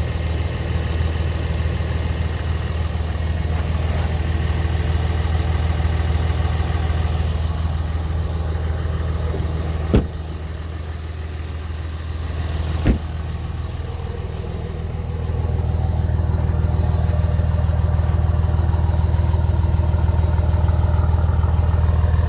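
Dodge Ram 3500's 5.9 Cummins inline-six turbo diesel idling steadily, growing louder about two-thirds of the way through. Two sharp knocks about three seconds apart sound near the middle.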